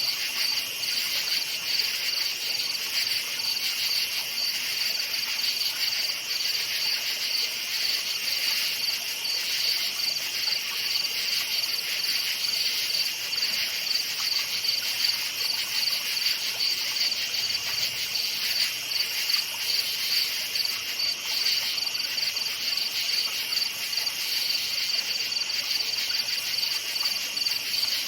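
A chorus of crickets chirping steadily, a dense high-pitched pulsing trill that never pauses.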